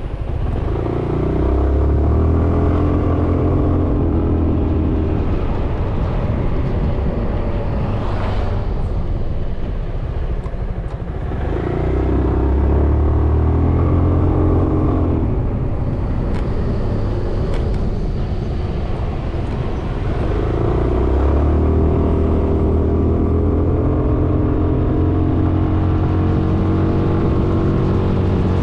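Suzuki Burgman 400 scooter's single-cylinder engine and CVT pulling under throttle three times, with wind rushing past between, where the engine eases off.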